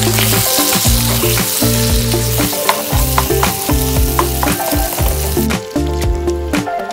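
Chicken and mixed vegetables sizzling in a hot oiled wok while a wooden spatula stirs them, with short knocks of the spatula against the pan. The sizzle thins out about two-thirds of the way through.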